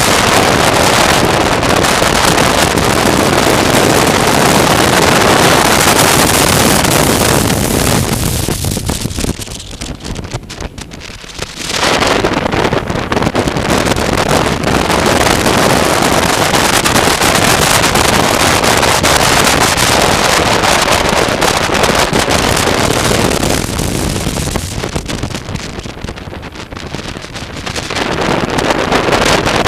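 Wind rushing over the microphone of a moving motorcycle, with engine and road noise underneath. The rush drops off twice, about a third of the way in and again near the end, as the bike slows, then builds back up.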